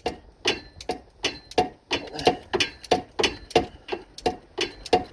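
Ratchet wrench clicking in short back-and-forth strokes, about three clicks a second, as it undoes the aluminium cartridge oil filter housing cap in a tight spot on the engine.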